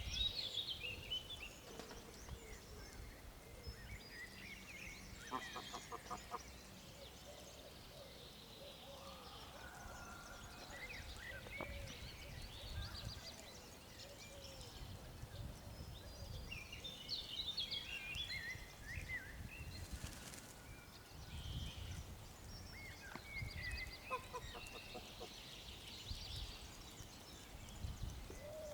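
Small birds chirping and twittering throughout, with a couple of short, lower pulsed calls about five seconds in and again near the end, over a low wind rumble.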